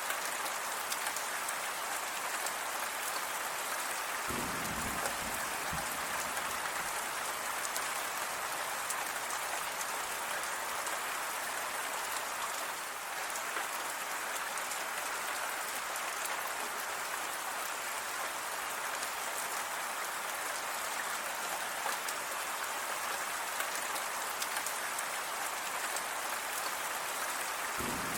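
Steady rain falling, a dense even patter of drops. About four seconds in there is a brief low rumble under the rain.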